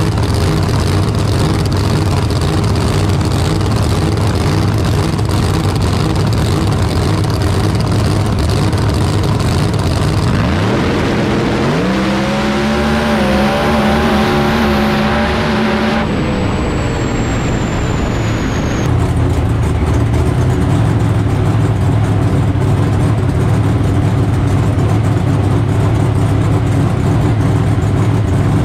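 A car engine running with a steady low drone. In the middle stretch the engine's pitch rises as it revs up, then holds high for a few seconds before the sound cuts back to the steady drone.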